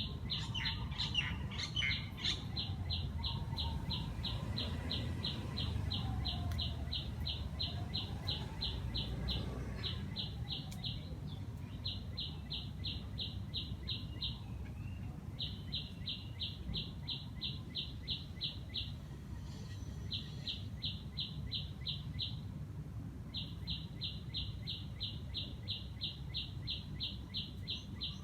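Birds calling in a garden. A rapid, regular series of high notes, about five a second, repeats in long bouts with a few short pauses, and brief twittering comes near the start. A steady low background rumble runs underneath.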